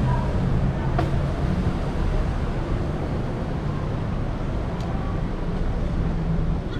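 Road traffic: motor vehicles running nearby in a steady, dense low rumble, with a couple of faint clicks.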